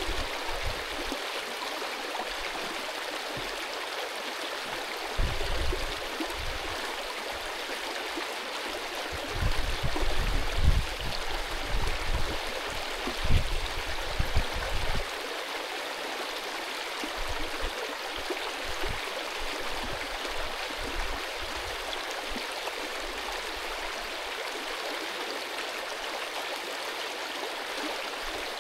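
Mountain stream rushing over stones, a steady even rush of water. Several low rumbles come and go between about five and fifteen seconds in.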